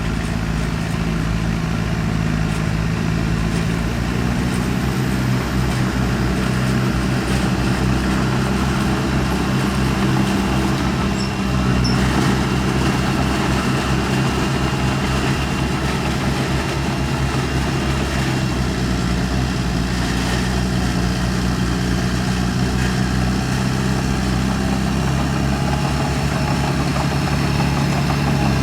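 Heavy diesel engine of earthmoving machinery running steadily, its engine speed shifting up and down a few times.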